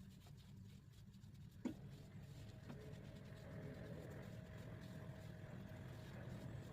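Faint room tone with a steady low hum, and a single soft knock about two seconds in.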